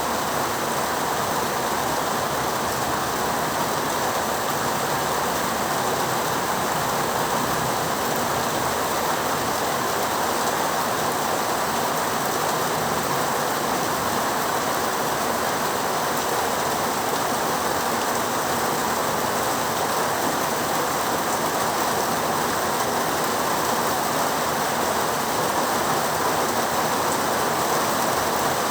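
Heavy rain falling in a steady, even hiss, with no breaks or sudden sounds.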